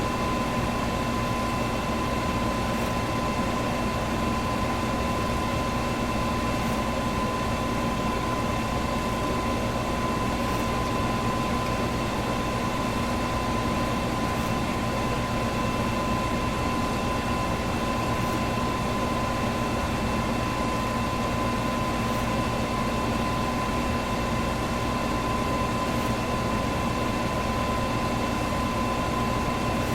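Electric fan running steadily: an even rush of air with a constant whine and hum. A faint tick recurs about every four seconds.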